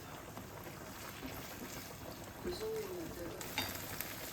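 Kitchen cooking sounds: water bubbling in a pot, then a sizzle starting about three and a half seconds in as something hits a hot pan, with a few clicks.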